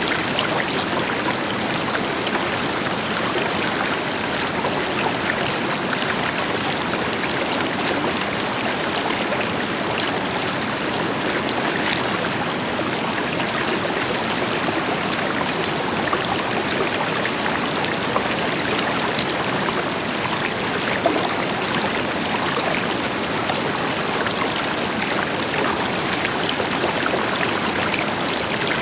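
River water flowing steadily over rocks, a full, even rush with fine splashing and trickling detail, backed by the deeper wash of a distant waterfall.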